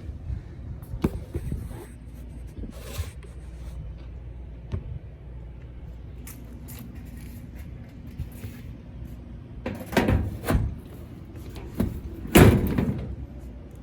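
Clicks, knocks and a few louder metal clatters from parts and tools being handled inside a rooftop HVAC unit, over a steady low rumble. The loudest clatters come near the end.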